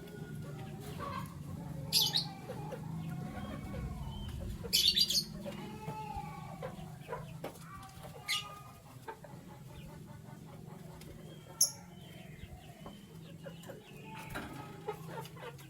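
Caged canaries chirping, with four short loud bursts of wing flapping, over a steady low hum.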